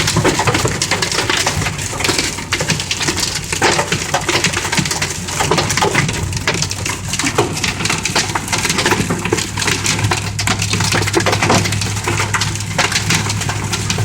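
Heavy rain pelting a Jeep, a dense clatter of countless drops with a steady low engine hum beneath.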